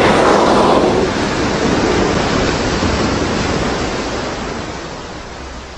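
A loud rushing roar that starts abruptly and slowly fades, with no distinct knocks or tones.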